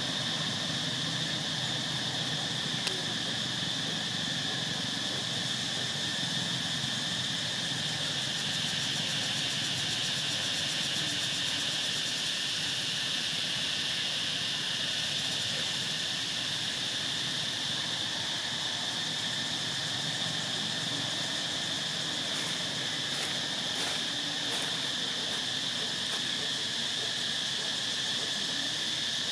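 Steady chorus of insects such as cicadas or crickets, a continuous high-pitched drone that does not let up.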